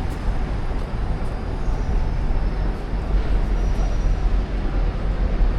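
Outdoor city background noise: a steady wash of sound with a heavy, uneven low rumble.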